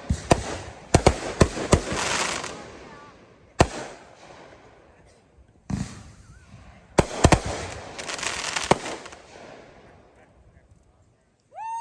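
Aerial fireworks (display shells and 500 g cakes) bursting: a series of sharp bangs, several in quick clusters, some followed by crackling. The bursts die away over the last couple of seconds.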